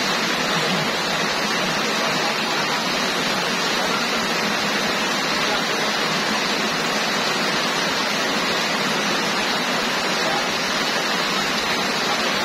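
Heavy tropical downpour: rain falling steadily in an even, unbroken hiss.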